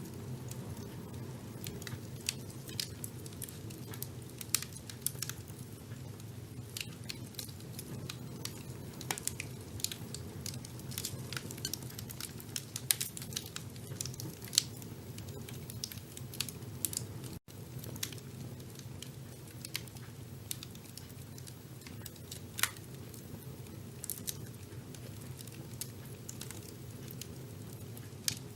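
Wood fire burning in a fireplace: irregular sharp crackles and pops over a steady low rumble of the flames. The sound cuts out for an instant a little past halfway.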